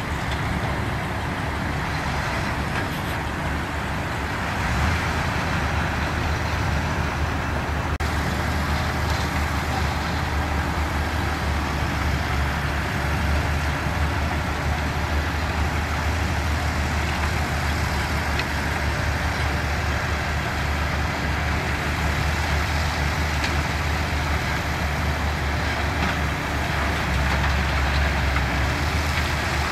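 Diesel engines of heavy construction machinery running: a steady low rumble that grows stronger about five seconds in.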